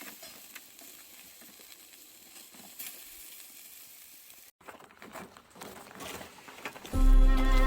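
Faint crackling hiss with scattered small ticks, broken by an abrupt cut a little past halfway; near the end, background music with bowed strings starts loudly.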